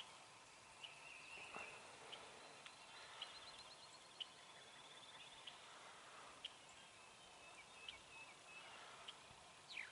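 Faint spring woodland ambience: scattered small-bird chirps and trills, with a quick downward whistle near the end.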